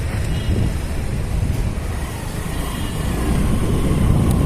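Riding noise on a moving motorcycle: wind buffeting the microphone in a steady low rumble over the running engine, getting a little louder near the end.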